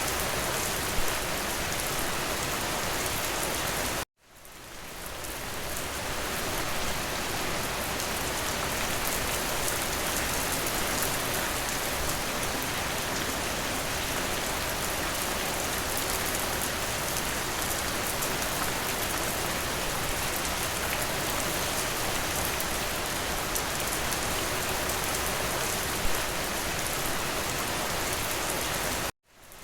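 Steady rain on a window glass. The sound cuts out suddenly twice, about four seconds in and near the end, and fades back in over a second or two each time.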